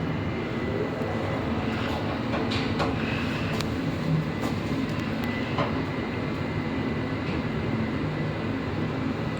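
Passenger lift car travelling down its shaft: a steady rumble of the moving car, with a few faint clicks and rattles along the way.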